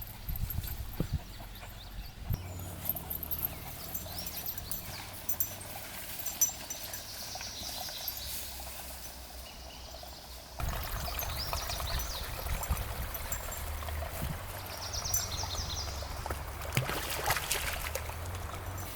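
Outdoor ambience: a steady low rumble with a few soft knocks, and short high chirps every few seconds. The sound gets louder and fuller about ten seconds in.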